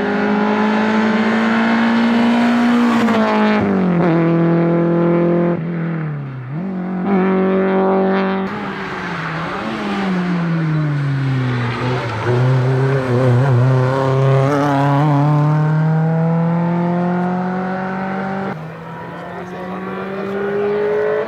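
Small racing hatchback engines at full throttle on a hillclimb. The engine note climbs through the revs and drops sharply at each gear change or lift, several times over. One car gives way to another about a third of the way in.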